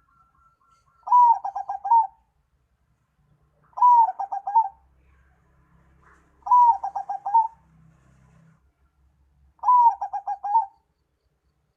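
A bird call repeated four times, about every three seconds, in the manner of a dove. Each phrase starts with one falling note and runs into a quick string of short pulsed notes, lasting under a second.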